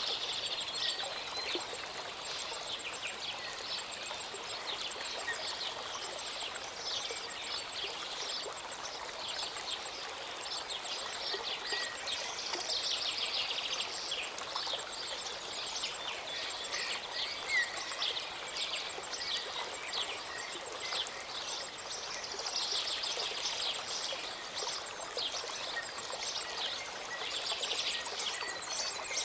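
A small mountain stream and waterfall running steadily, with many songbirds chirping and trilling over the water's rush.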